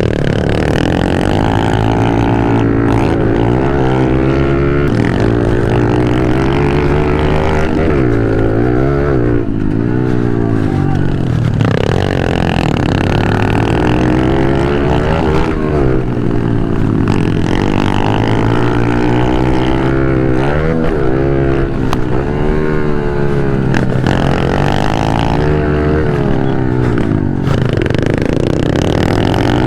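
Pit bike engine at race pace, heard from on board: the revs climb and drop again and again as the rider accelerates, shifts and brakes through corners, with the engine note running continuously.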